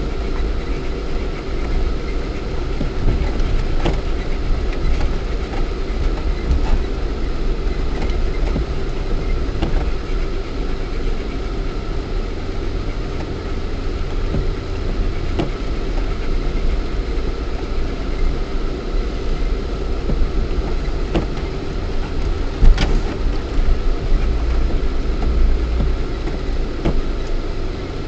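Lada Niva 1.7i's four-cylinder petrol engine running as the 4x4 drives off-road, heard through a dash cam inside the cabin, with scattered knocks throughout and one louder knock near the end.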